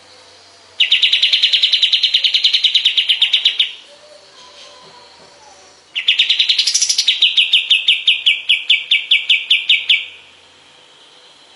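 Kapas tembak songbird singing two rapid trilled phrases of evenly repeated notes, about eight or nine a second. Each phrase lasts three to four seconds. The second phrase has a brief upward sweep a second after it starts, then goes on a little lower.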